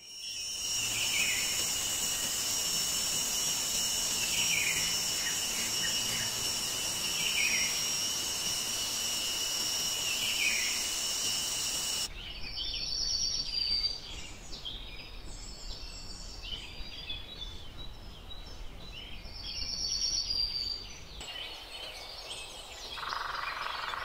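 Birds calling in natural ambience. For the first half a steady high-pitched drone runs under a short falling call that comes four times, about every three seconds. Then the sound changes abruptly to scattered, quieter bird chirps and trills.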